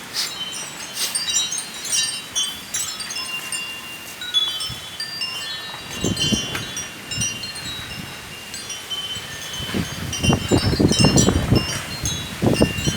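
Wind chime ringing with many short, high, scattered tones, set swinging by strong storm wind. Gusts rumble on the microphone about six seconds in and again from about ten seconds on.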